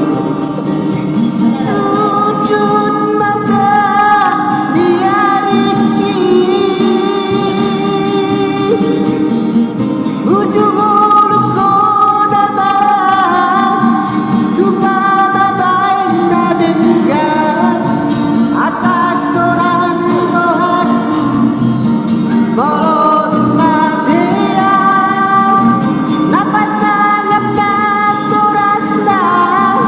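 A solo voice singing a slow Batak song in long, held notes with sliding pitch, over a plucked guitar accompaniment.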